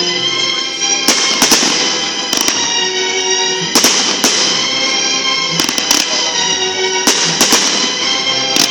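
Fireworks bursting in a series of sharp bangs, several close together, over loud music accompanying the display.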